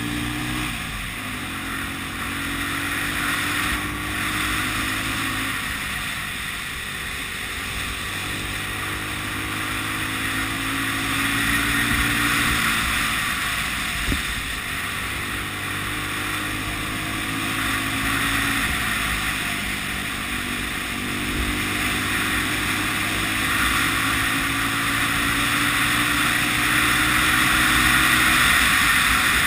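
1980 Honda CB 250 RS single-cylinder four-stroke engine under way, its note climbing slowly and then dropping back several times as the throttle is worked through the bends. Steady wind rushes over the microphone.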